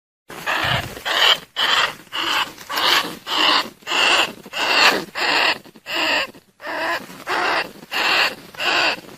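Bandicoot rat calls used as a lure to draw rats in: short, harsh cries repeated steadily about twice a second.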